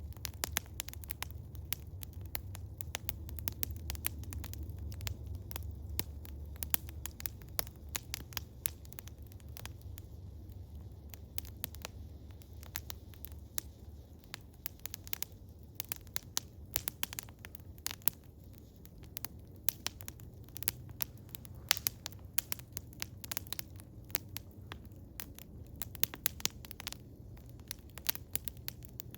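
Wood fire of eastern hemlock crackling, with frequent sharp irregular pops over a low steady rumble.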